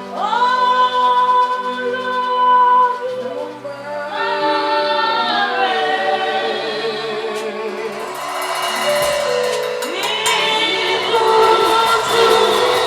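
Gospel worship singing: a group of voices holds long notes, sliding between pitches, over steady sustained accompaniment.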